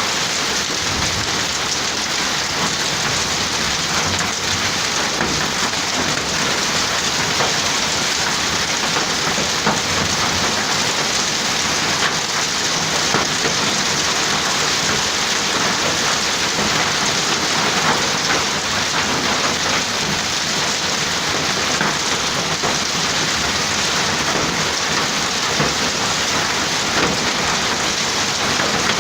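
Hail and heavy rain pelting down steadily, a dense clatter of countless small hits.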